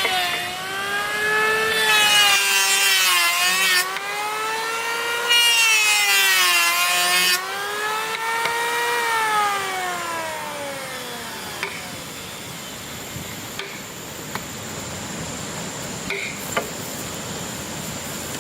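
A power saw cutting wood: the motor whines, dipping in pitch under load during two cuts of about two seconds each, starting about 2 and 5 seconds in. The motor then winds down and stops, followed by a few light knocks.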